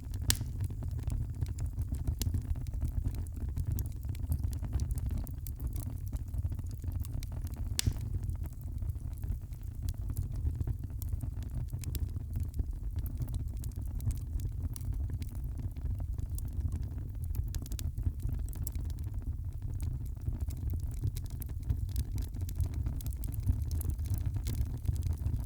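Wood fire crackling, with frequent sharp pops and snaps scattered irregularly over a low, steady rumble.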